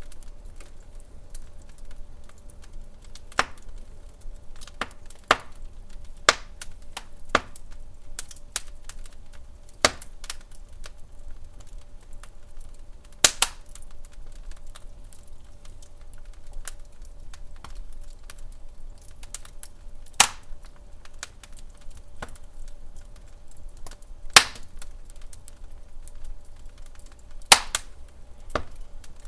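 Wood fire in a fireplace crackling, with irregular sharp pops every second or so, a few of them much louder than the rest.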